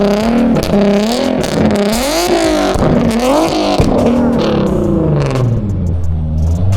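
Car engine revved hard up and down over and over, its pitch swinging rapidly, then settling to a steady low note about five and a half seconds in.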